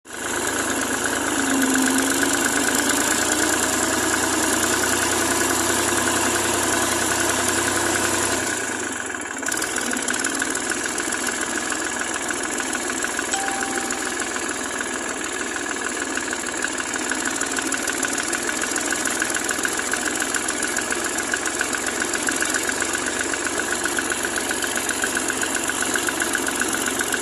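Tractor engine idling steadily, with a brief drop in level about nine seconds in before it carries on with an even, fast pulse.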